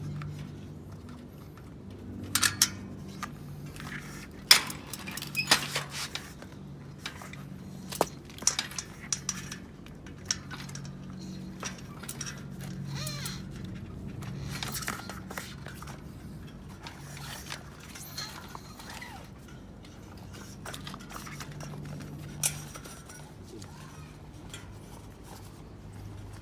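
Scattered clinks, clicks and scrapes of hand tools and metal parts being handled during bicycle tyre and tube work. The sharpest clicks cluster in the first third, with one more just after the middle, over a faint steady low hum.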